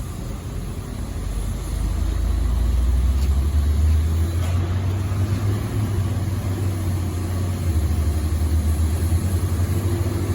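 A heavy truck's engine runs with a low, steady hum. It gets louder and rises in pitch about three seconds in.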